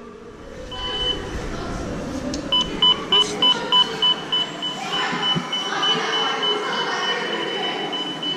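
Electronic warning beeper: one short high beep, then a fast series of short high beeps, about three to four a second, over the rumble and hubbub of a metro station.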